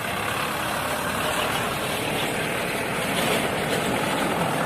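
Heavy trucks running in a convoy: a steady engine rumble mixed with dense road and traffic noise.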